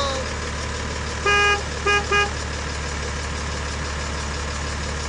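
Vehicle horn honking: one beep about a second in, then two quick shorter beeps, over a steady low engine-like hum.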